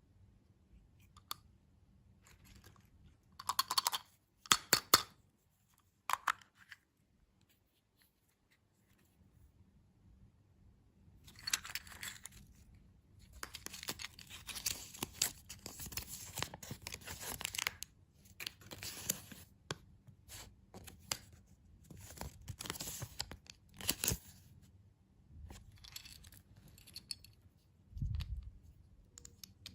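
Candy packaging being torn open and crinkled in bursts of sharp rustling, with a dense stretch of tearing in the middle and a single low thud near the end.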